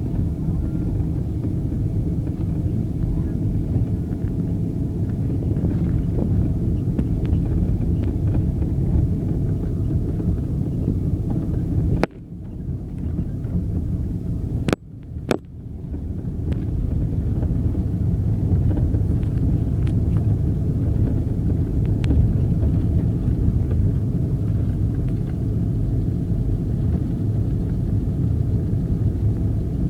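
Car on the move: a steady low rumble of engine and road noise. It drops out suddenly twice, about twelve and fifteen seconds in, before resuming.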